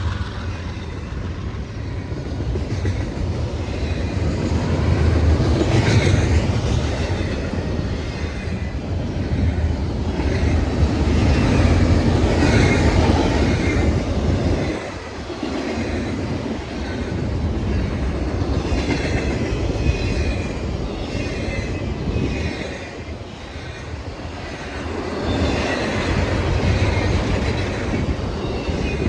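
Train rolling past with a steady rumble of wheels on the rails, with faint, brief wheel squeals now and then.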